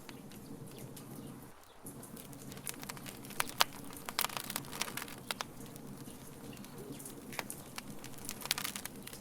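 Wood fire crackling: sharp pops and snaps that come thickest from about three to five seconds in and again near the end, over a low steady hum.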